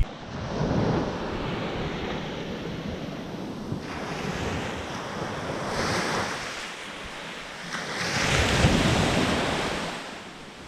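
Ocean surf breaking and washing up the beach, swelling in two surges, one about a second in and a louder one about eight seconds in, with wind on the microphone.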